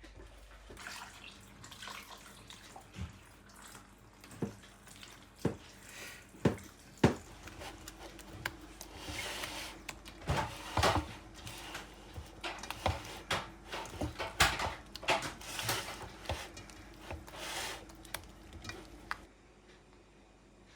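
Hands working in water, with splashing and dripping and irregular sharp knocks of dishes. It starts about a second in and stops near the end.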